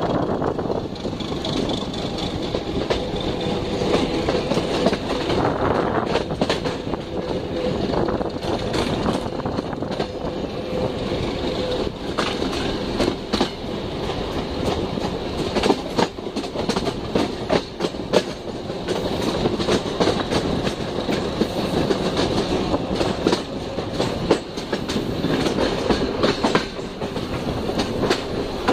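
Albanian Railways passenger train running along the line, heard from a carriage window: a steady rumble of wheels on the track with irregular clicks and knocks from the rail joints, and a faint steady whine in the first several seconds.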